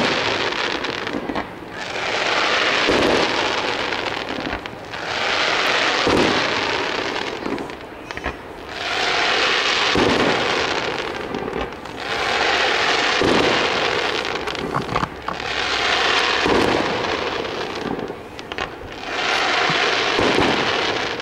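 Aerial firework shells bursting one after another, about seven in all, roughly every three seconds. Each sharp bang is followed by about two seconds of crackling.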